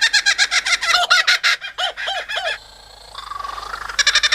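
Superb lyrebird singing a rapid run of mimicked calls, a kookaburra-like laughing chatter of many quick notes a second. It breaks off briefly past the middle, gives a short whistle, then the fast chatter starts again near the end.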